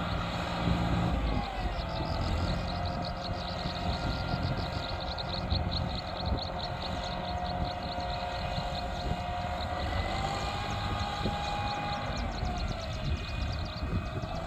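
Heavy diesel vehicle engine running steadily, a low rumble with a whine that drifts in pitch and a fast, regular ticking from about a second and a half in.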